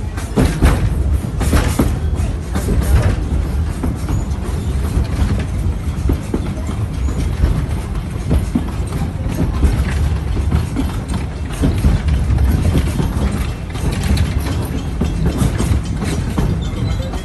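Passenger train running along the track from on board: a steady low rumble from the cars, with wheels clacking and knocking over the rails.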